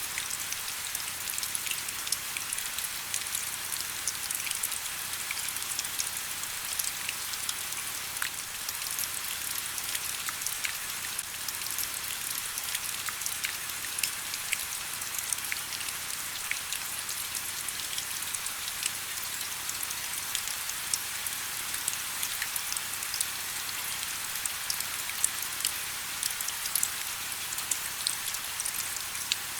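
Steady rain with many distinct drop ticks over an even hiss.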